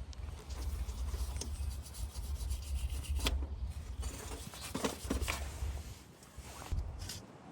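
Wire brush scrubbing a car part in irregular strokes, easing off about six seconds in.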